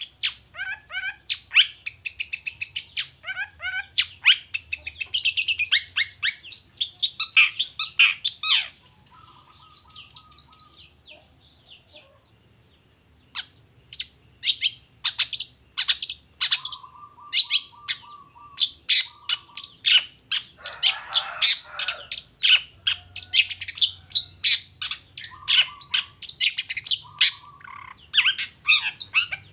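Long-tailed shrike (cendet) singing a rapid, varied song of short, sharp chattering notes. It breaks off for about two seconds near the middle, then resumes with fast harsh calls.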